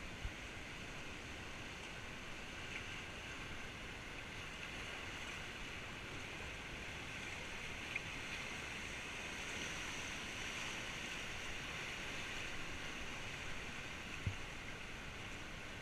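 Steady rush of river water, with a few short knocks.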